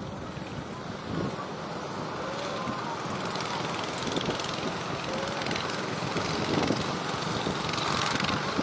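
Strong wind with rough sea waves, a steady rushing noise that grows slightly louder toward the end.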